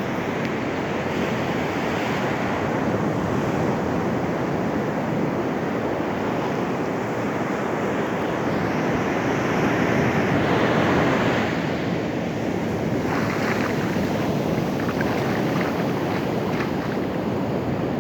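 Ocean surf washing onto a beach, a steady rush that swells louder about ten seconds in, with wind buffeting the microphone.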